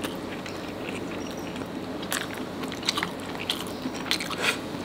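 Close-miked chewing of a mouthful of nasi padang rice eaten by hand, with irregular soft clicks and mouth smacks.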